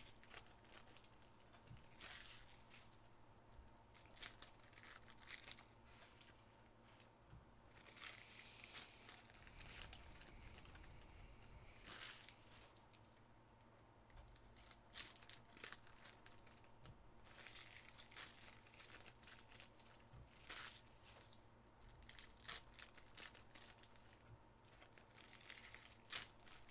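Faint, irregular crinkling and tearing of trading-card pack wrappers, with cards being handled and shuffled in short rustles.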